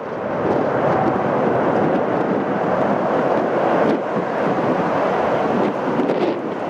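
Jet airliner engine noise, a steady rushing rumble.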